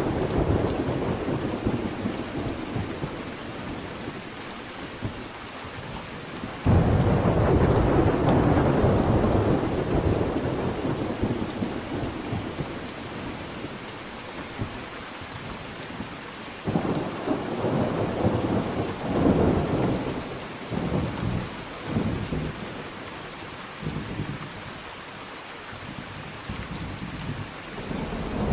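Thunderstorm: steady rain with rolling thunder. A loud crack of thunder comes suddenly about a third of the way in and rumbles away over several seconds, and more rolls of thunder follow in the second half.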